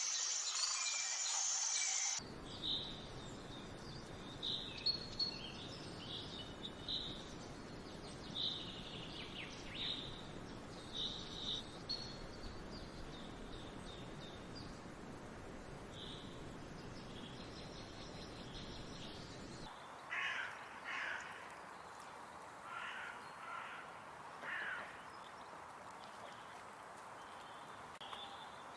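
Wild birds calling. A high steady buzz fills the first two seconds; then short high chirps sound over a low, even rushing background; from about two-thirds through come harsh, repeated caw-like calls, a few each second or two.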